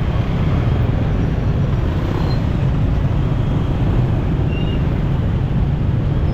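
Steady low rumble of a motorcycle riding in city traffic: engine, road and surrounding traffic noise, with a few faint short high tones over it.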